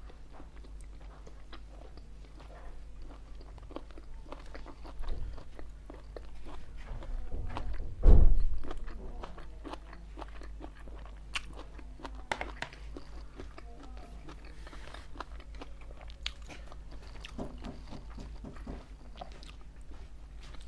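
Close-miked eating sounds: chewing and biting on chicken pieces eaten by hand, with many small wet clicks. There is one loud low thump about eight seconds in.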